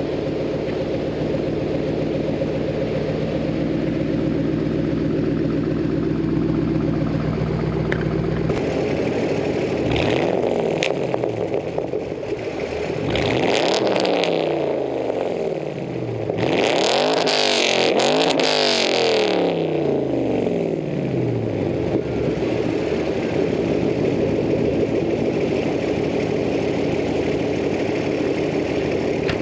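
2008 Ford Mustang Bullitt's 4.6-litre V8 through a Pypes axle-back muffler delete, idling, then blipped several times from about ten seconds in, its pitch rising and falling with each rev. It then settles back to idle.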